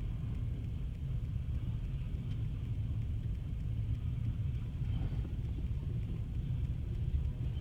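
A long freight train's cars rolling slowly past, a steady low rumble.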